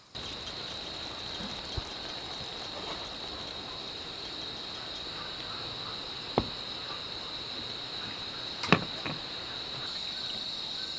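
Steady high-pitched chorus of insects droning without a break, with a few sharp clicks about 2, 6.5 and 9 seconds in.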